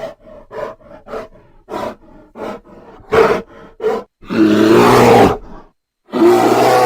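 Animal calls: a run of short calls about twice a second, then two long, loud pitched calls.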